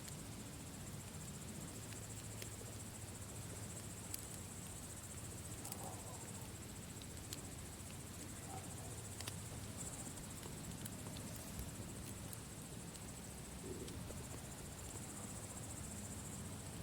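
Campfire burning with occasional sharp crackles and pops a second or two apart over a low rumble, while crickets trill steadily in the background.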